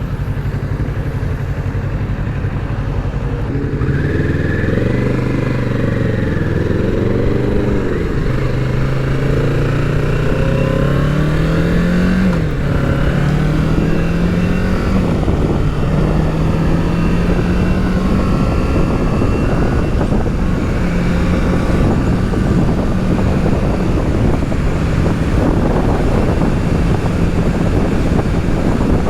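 Kawasaki Z650 parallel-twin engine under way: it holds a low steady note for a few seconds, then climbs in pitch as the bike accelerates, drops at a gear change about twelve seconds in, rises again briefly and settles into a steady cruise. Wind noise on the microphone grows near the end.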